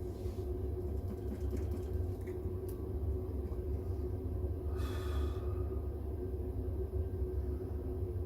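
Steady low hum, with a short scraping noise about five seconds in and a few faint ticks.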